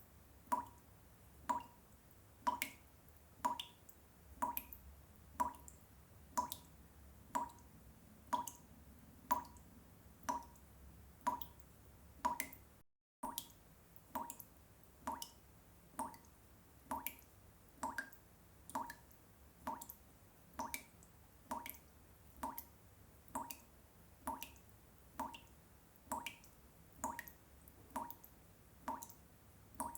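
Water dripping steadily, one drop a little more often than once a second, each a short pitched plink. The sound cuts out for a moment about thirteen seconds in.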